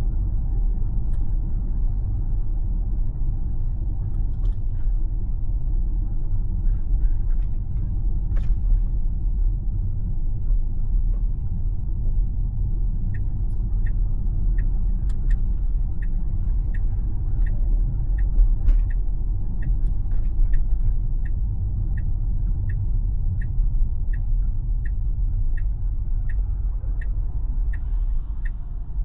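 Steady low road and tyre rumble inside a Tesla's cabin while driving. About halfway through, the turn-signal indicator starts ticking evenly, just under two ticks a second.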